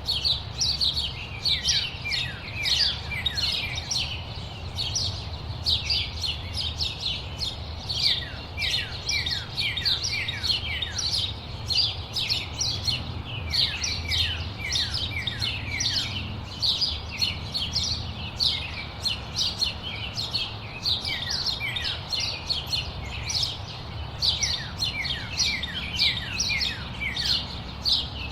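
A chorus of many small songbirds chirping continuously, with rapid overlapping short calls, many of them quick downward slides in pitch. A steady low rumble of background noise lies underneath.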